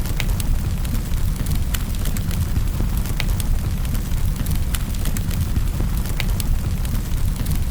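Fire burning in a fireplace: a steady low rumble with frequent irregular sharp crackles and pops.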